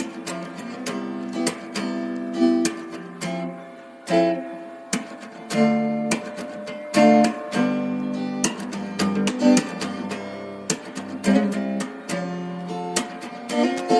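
Acoustic guitar music: chords strummed in a steady rhythm, with sharp strums every half second or so.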